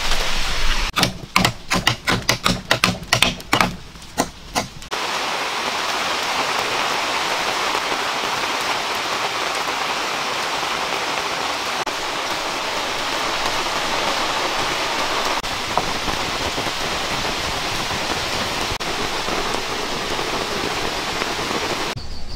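Rapid run of about a dozen sharp clicks during the first four seconds, from vine lashing being worked around a pole joint. Then steady rain noise, an even hiss.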